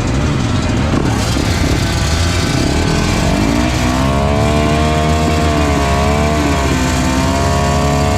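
Motocross dirt bike engines running. About three and a half seconds in, one engine revs up and holds at high revs, drops briefly about two-thirds of the way through, then pulls up again.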